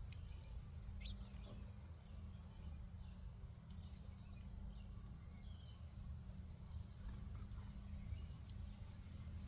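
Small songbirds at a feeder giving scattered short, high chirps, with a few sharp clicks, over a faint steady low rumble.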